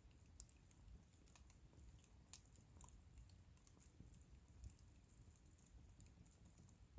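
Faint crackling of a wood bonfire: small, irregular pops and snaps over a low rumble.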